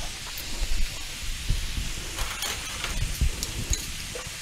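Ground beef, minced onion and fresh garlic sizzling in a skillet: a steady hiss with a few faint clicks and pops.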